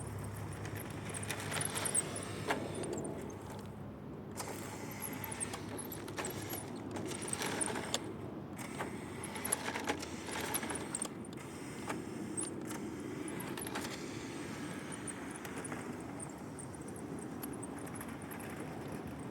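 A vehicle driving, a steady noisy rumble with frequent light rattles, clicks and jangling.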